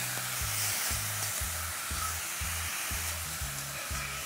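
Cubed boneless chicken searing in hot oil on a high flame: a steady sizzle, with a slotted metal spatula stirring through the pieces.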